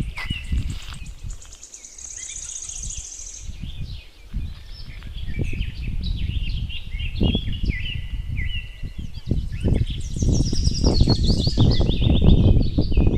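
Birds chirping and trilling repeatedly over a heavy low rumbling noise, which grows louder in the second half.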